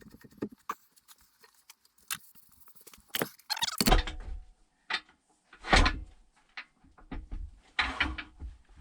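A heavy log on a steel faceplate being handled and threaded onto a wood lathe's spindle: scattered metal clicks and light knocks, with a few heavier thumps and scrapes as the wood and metal are shifted into place.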